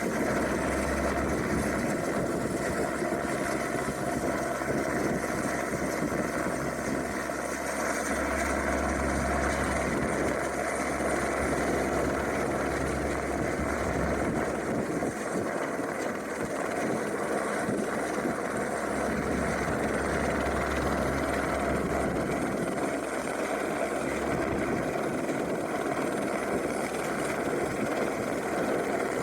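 AS350 helicopter's single turbine engine and rotor running steadily in a hover, with a low rumble of gusting wind swelling and fading a few times.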